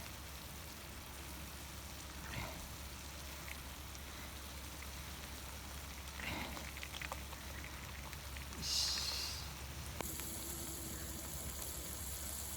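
Food sizzling on a hot steel griddle as a steady hiss with small crackles, swelling into a louder burst of sizzling about nine seconds in. A sharp click about a second later is followed by a stronger, higher hiss.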